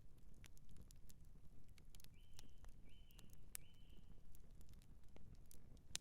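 Campfire crackling, with frequent sharp pops and snaps of burning wood over a low rumble of the flames. About two seconds in, an animal gives three short, evenly spaced high calls.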